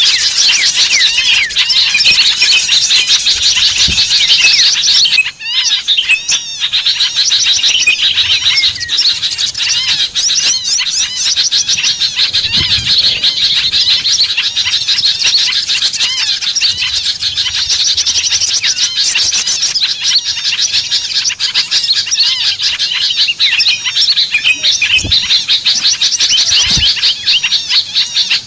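Dense chorus of many small birds chirping and twittering rapidly without pause, a bird-luring call recording meant to draw small birds in. The chatter briefly drops out about five seconds in.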